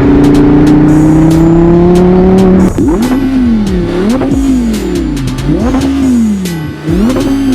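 Audi R8's naturally aspirated 5.2 V10 through a Milltek exhaust, held at high revs and climbing slowly for about two and a half seconds, then revved up and down in repeated swells about every second and a half. Music with a steady beat plays underneath.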